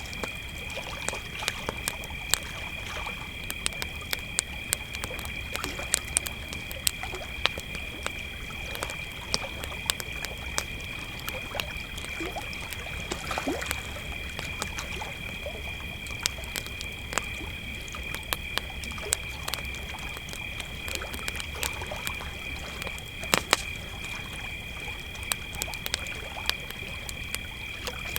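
Crickets chirping in a steady, unbroken chorus, with a wood campfire crackling and popping in sharp snaps throughout; a few louder pops come about 23 seconds in.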